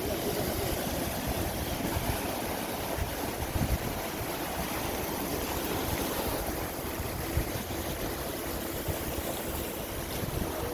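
Sea water rushing and splashing, with wind buffeting the microphone, over a faint steady hum.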